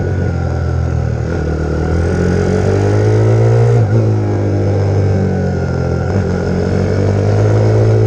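Pit bike's YX150 single-cylinder four-stroke engine revving, its note rising and falling, with brief breaks about four and six seconds in.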